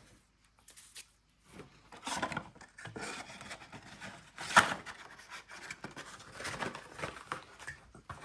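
Trading card packs and cards being handled: uneven rustling and rubbing of wrappers and card stock, with one sharp click about four and a half seconds in.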